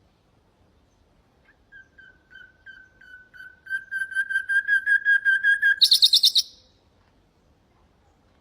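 Nightingale singing one phrase: a run of repeated pure whistled notes that swells steadily louder for about four seconds, then breaks into a short, fast, high trill.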